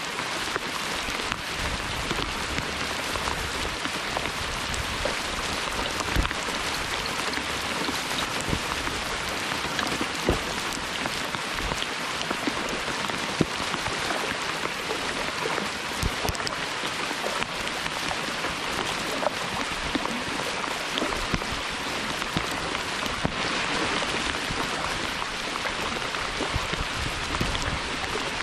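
Hard summer rain pouring down steadily: a dense, even hiss with many small, sharp drop hits scattered through it.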